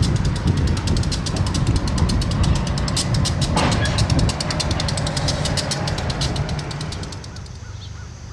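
Train rolling past with a low rumble and a rapid, even clicking of wheels over the rails, fading away near the end.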